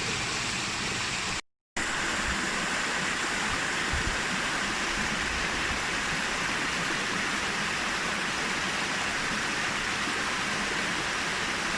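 Forest stream water rushing steadily over rocks, with a brief cut to silence about a second and a half in.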